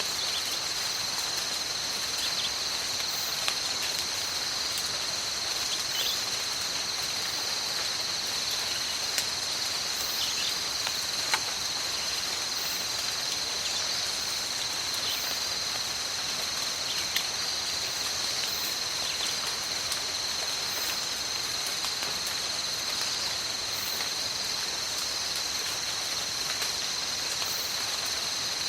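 Steady tropical rain in a forest, an even hiss, under a continuous high chorus of insects held at two steady pitches. A few louder single drops or drips stand out now and then.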